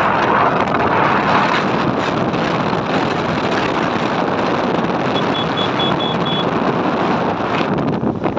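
Wind rushing over the microphone on a moving motorbike, with the bike running underneath. About five seconds in comes a quick run of about six high beeps.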